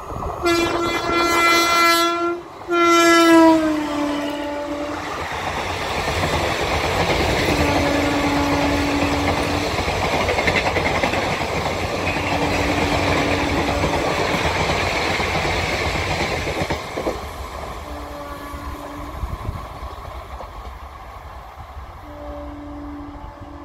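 An Indian Railways electric locomotive sounds two long horn blasts as it approaches, the pitch dropping as it passes, then its passenger coaches rumble and clatter by over the rails. The horn sounds four more times, shorter and lower in pitch, as the train draws away.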